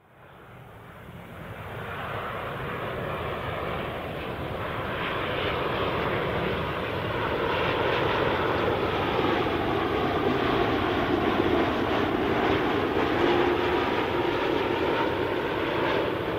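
Jet airliner's engines heard as it moves past the airport, fading in after a cut and building to a loud, steady sound within a few seconds, with engine tones that slowly shift in pitch as it passes.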